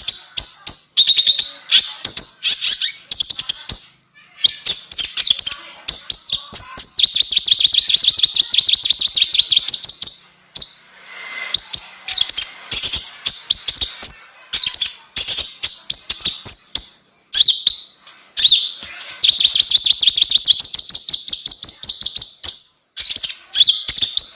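Konin, the kolibri ninja sunbird, singing: loud, fast, high-pitched chirping trills in runs of a few seconds, broken by short pauses.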